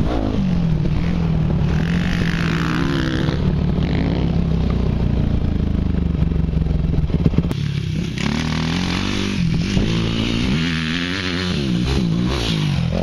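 Dirt bike engine running under a rider's throttle: a steady note for several seconds, then rising and falling repeatedly with revs and gear changes. A few short clattering knocks come about seven seconds in.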